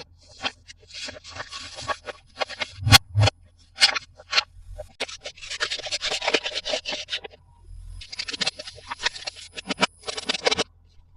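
Plastic toy packaging being handled and unwrapped: crinkling and scraping in three stretches, with a few sharp clicks between about three and four and a half seconds in.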